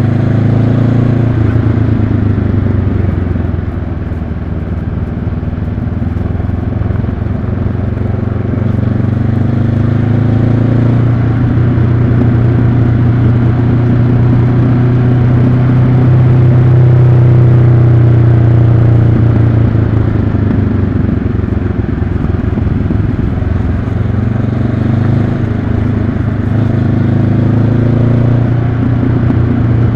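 2022 Honda CB500X's 471 cc parallel-twin engine running steadily on the move, its engine speed rising and falling several times.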